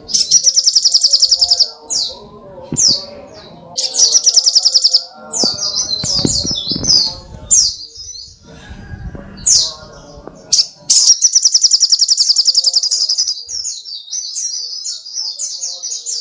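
Songbird singing loud, high-pitched 'tembakan' song: rapid machine-gun trills of evenly repeated notes, each about a second long, with short chattering and sliding phrases between them. Three long trills come near the start, about four seconds in, and about eleven seconds in.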